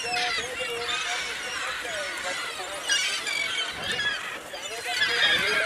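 A flock of birds calling all at once: many overlapping squawks and chirps, with no pause.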